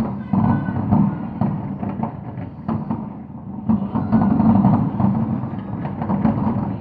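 Fireworks shells bursting in quick succession: a steady low rumble of booms with many sharp cracks on top.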